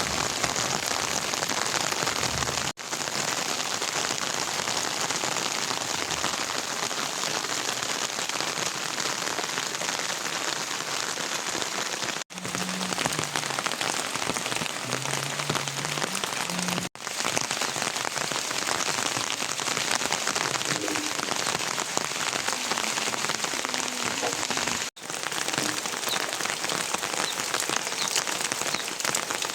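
Steady rain falling on surfaces, a dense even hiss. It cuts out for an instant four times, at the joins between clips.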